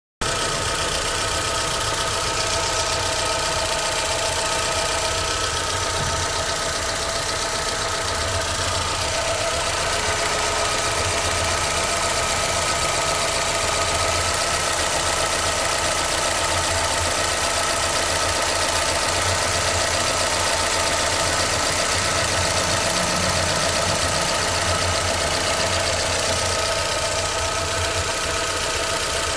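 Chevrolet Celta VHCE engine idling with a persistent rapid ticking knock. The owner traced the noise to faulty hydraulic lifters.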